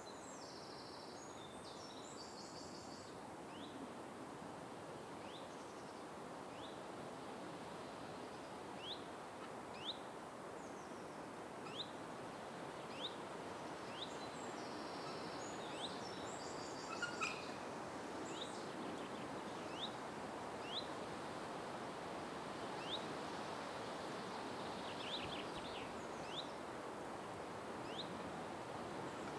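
Outdoor ambience of a tropical garden: a steady background hiss, with a bird repeating a short rising chirp every second or two and a few other bird calls mixed in.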